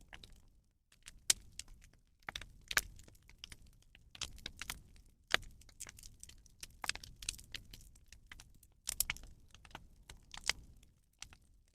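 Rubbish burning on a bonfire, crackling with sharp irregular pops and snaps.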